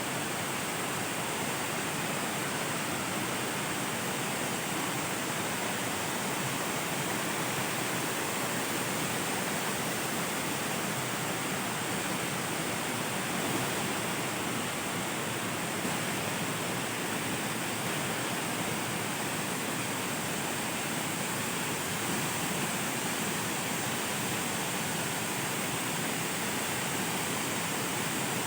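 Jagir waterfall: falling water rushing steadily and unchanging.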